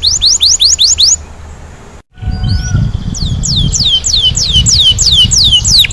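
Domestic canary singing: a fast trill of rising whistled notes, a brief break about two seconds in, then a string of falling whistled notes, two or three a second.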